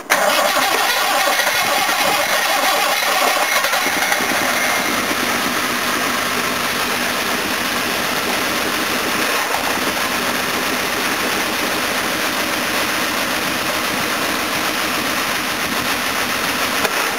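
Jaguar XK 4.2-litre straight-six running unevenly, not quite firing on all cylinders, its level a little higher for the first few seconds and then steady. The misfire comes from the front carburettor passing no fuel, with the ignition timing also needing adjustment.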